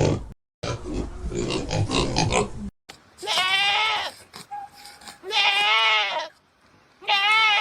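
Pig grunting for the first couple of seconds, cut off briefly once, then three bleats about a second long each, with a wavering, quavering pitch.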